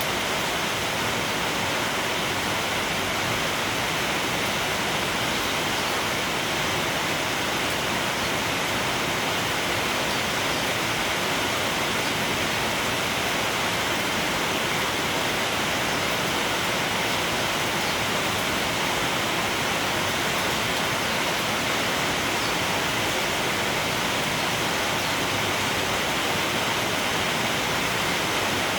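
Steady rain falling, a continuous even hiss with no change in strength.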